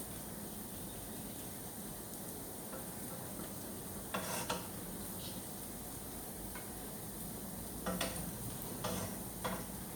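A cooking utensil scraping and clinking in a frying pan, once about four seconds in and in three short bouts near the end, over a steady frying hiss.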